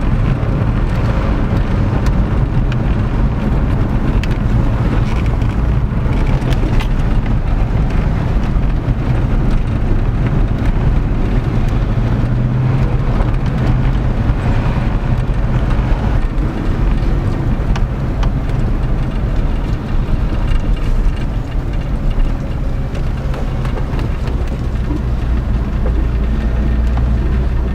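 C5 Corvette's V8 engine running steadily while the car is driven, with road and wind noise.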